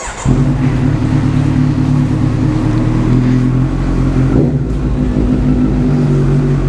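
Motorcycle engine running at a steady speed, coming in suddenly just after the start and holding an even, unchanging note.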